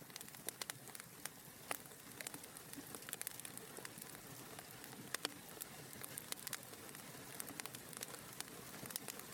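Wood fire burning in a fireplace, crackling: frequent sharp irregular pops and snaps over a soft steady hiss of the flames.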